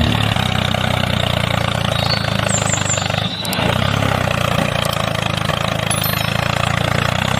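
Mini tractor's engine running steadily, with a brief dip about three seconds in.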